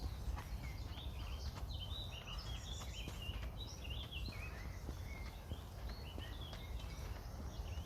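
Songbirds chirping in a quick run of short notes for the first few seconds, over the low rumble of wind on the microphone, with light footsteps on a woodland path.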